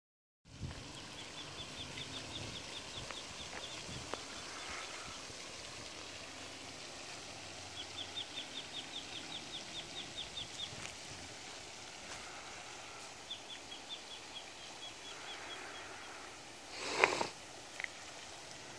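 A bird calling in three runs of rapid, evenly spaced high chirps, about five a second, each run lasting two to three seconds, over a steady faint hiss. A brief loud rustle near the end.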